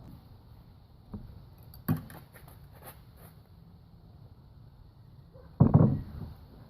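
Hand tools knocking and clicking against metal during work on an engine cylinder head: a sharp knock about two seconds in followed by a few small clicks, and a louder clatter near the end.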